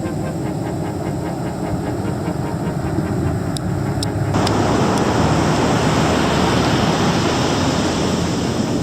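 Ocean surf from a typhoon swell, a steady rushing noise of waves breaking. About four seconds in it abruptly becomes fuller and a little louder.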